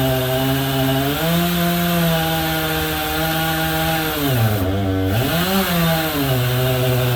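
Two-stroke chainsaw running in a home-built chainsaw mill, ripping lengthwise through a walnut log. The engine note steps up about a second in, dips sharply in speed around two-thirds of the way through as the chain loads up in the cut, then recovers.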